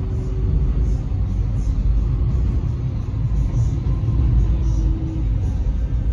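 Steady low rumble of an X'Trapolis electric train running on the track, heard from inside the carriage, with a faint hum from the drive.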